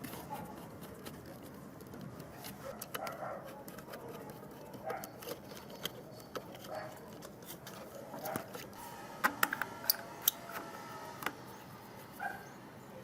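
Scattered light clicks and taps of small hard parts being handled, with a quick run of sharper, louder clicks about nine to ten seconds in.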